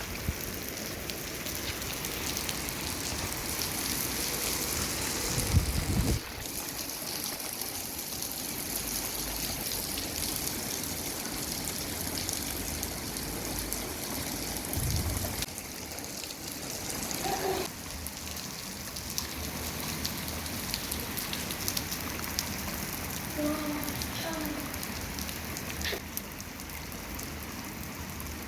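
Steady rain falling and pattering on surfaces, an even hiss throughout, with a couple of brief low rumbles.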